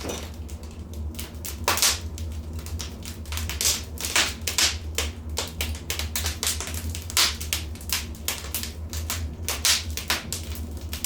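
Wood fire crackling in a fireplace: a dense, irregular stream of sharp snaps and pops, several a second, over a low steady rumble.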